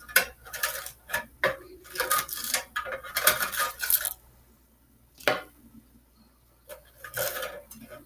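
Dishes and kitchen utensils clattering as fried food is handled: a run of clicks, knocks and scrapes for about four seconds, then one sharp knock, and a short scrape near the end.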